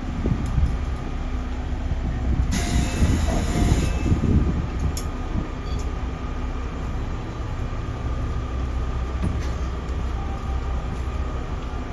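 Interior of a JR Central 311 series electric train standing at a station: a steady low hum of the car's equipment with faint steady tones. About two and a half seconds in, a hiss starts suddenly and lasts about a second and a half.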